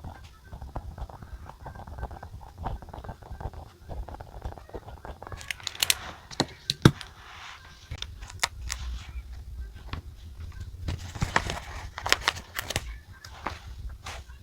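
Close-up desk sounds of journaling: a run of small clicks and taps, with short spells of paper rustling and crinkling, as of stickers and diary pages being handled.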